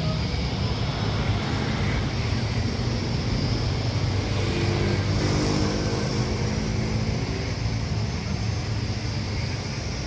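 Jet airliner engines running with a steady low rumble and a faint high whine.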